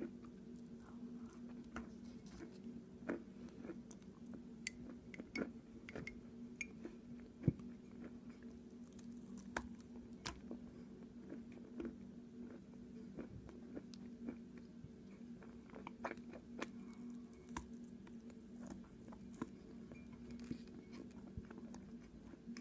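Close-up chewing and biting of water-soaked chalk: irregular crisp crunches and clicks between softer chewing, over a steady low hum.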